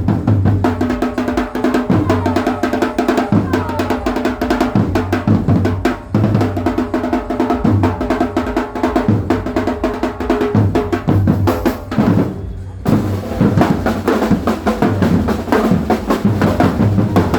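Live percussion ensemble drumming: fast, dense bass-drum and snare patterns with rolls over a sustained pitched backing, briefly thinning out about twelve seconds in.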